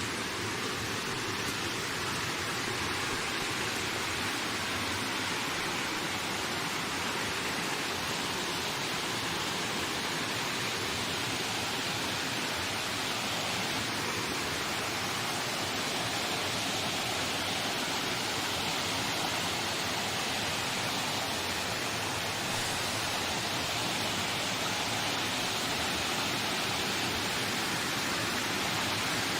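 Steady rushing wind in a forest, an even noise with no gusts or breaks.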